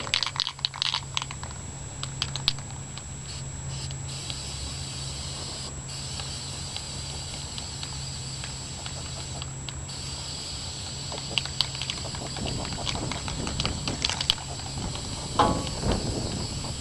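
Aerosol can of Rust-Oleum automobile primer spraying in long hissing passes, broken by two short pauses, with scattered clicks and taps from handling.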